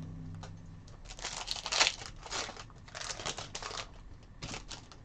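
A foil trading-card pack wrapper being torn open and crinkled by hand, in short crackly bursts loudest about two seconds in.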